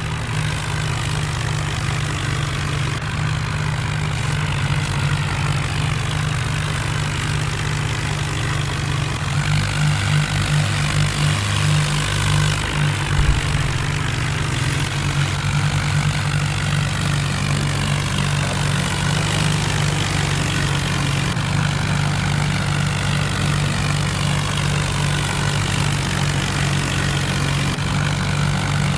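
Tractor's diesel engine running steadily, its note wavering for a few seconds about a third of the way in.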